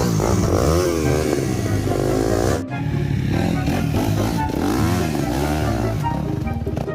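Dirt bike engine revving up and down over and over as it is ridden. The sound breaks off sharply about two and a half seconds in and picks straight up again.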